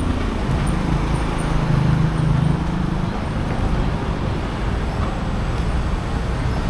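Street traffic: a steady wash of road noise, with one vehicle's engine humming louder in the first few seconds as it passes.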